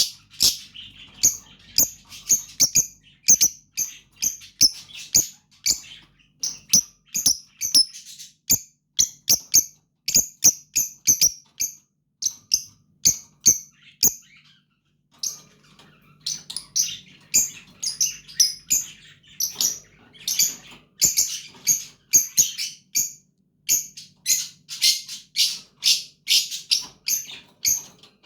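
Fischer's lovebird chicks chirping: a rapid string of short, sharp, high calls, several a second, with a brief pause about halfway through.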